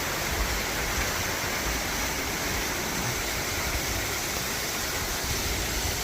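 Steady rush of water as the canal lock chamber fills and the boat in it is raised, with uneven low rumbles underneath.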